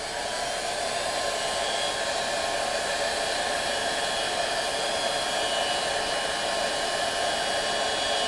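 Electric heat gun blowing steadily, a constant rushing hiss of fan and hot air with a faint steady whine. It is heating a thin brass shell to expand it before it is pushed onto a 3 mm motor shaft.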